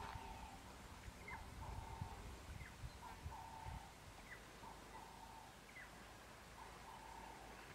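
A bird calling faintly and repeatedly, about once every second and a half. Each call is a quick falling slur followed by a short steady note. Low wind rumble on the microphone sits beneath it in the first few seconds.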